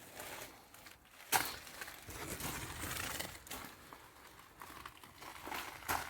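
Irregular crinkling and rustling, with a sharp click a little over a second in.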